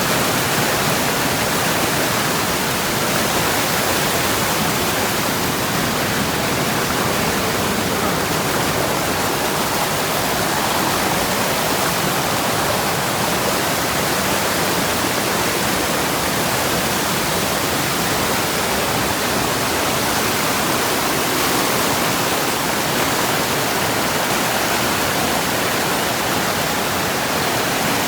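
Waterfall running: a steady, loud rush of falling water that holds even throughout, with no single splashes or breaks.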